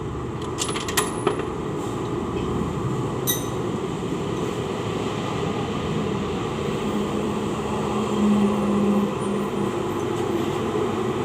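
A few sharp metallic clinks of hand tools and cylinder-head bolts being handled, about a second in and again after three seconds, over a steady background hum that swells briefly around eight seconds in.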